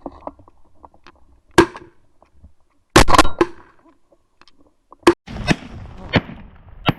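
Shotguns firing at ducks: about eight sharp blasts at uneven intervals, several in quick succession about three seconds in.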